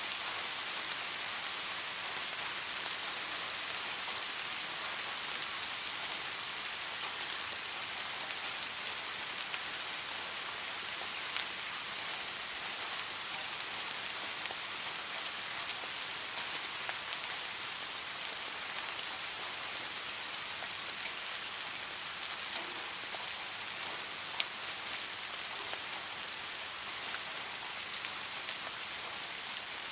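Steady rain falling on a hard surface, an even hiss with scattered sharper drop ticks, a few louder ones standing out.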